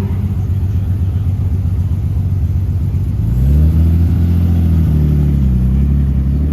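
Car engines running at low revs; about three seconds in a louder car engine comes close, its pitch rising, then wavering and dipping as it drives by.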